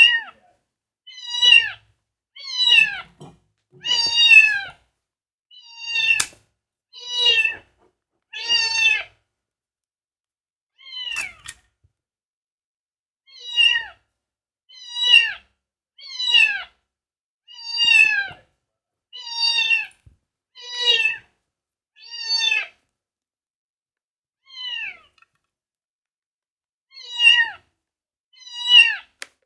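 Domestic cat meowing over and over, about eighteen calls that each drop in pitch, coming roughly every second and a half with a few short pauses. The owner reads the calling as the cat being upset.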